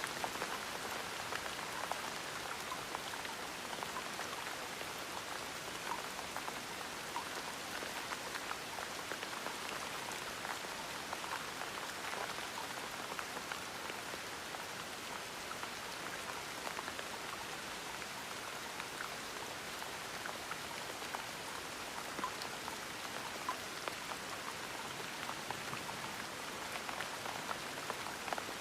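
Steady gentle rain falling, with many small individual drops pattering on a surface.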